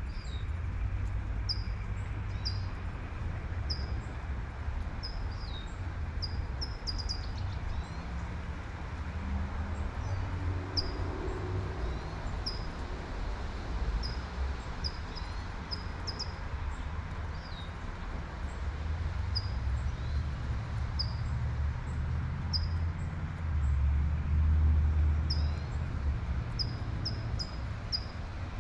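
A bird repeating a short, high, falling chirp about once a second over the steady hiss of light rain, with a low rumble of passing traffic that swells loudest near the end.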